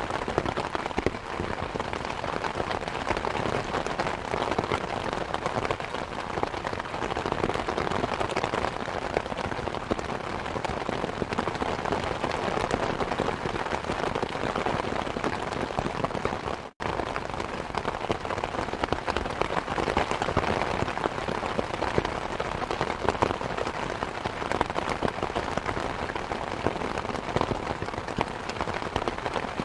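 Steady rain mixed with the crackle and small pops of a fireplace fire, as a continuous ambience bed. The sound cuts out completely for an instant just past halfway, then resumes.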